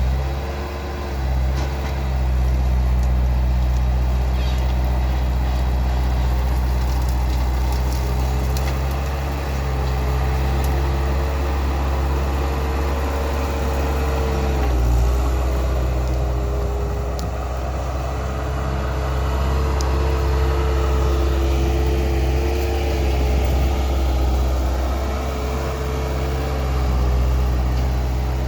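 Skid steer loader's engine running steadily under work, with a whine that holds mostly level and dips slightly in pitch now and then.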